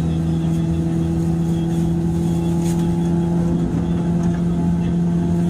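JR 103 series electric train running at steady speed, heard inside motor car MoHa 103-773: a steady drive hum from the traction motors and gears at one unchanging pitch over the rumble of the wheels on the rails.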